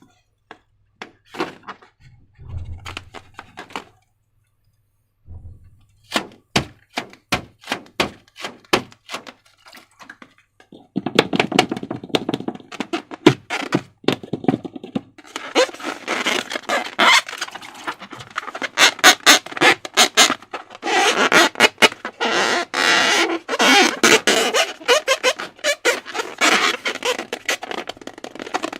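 Slime being worked by hand, making wet clicks and squelches: a few scattered clicks at first, then a run of quick separate clicks, then from about eleven seconds in, dense continuous squelching and crackling.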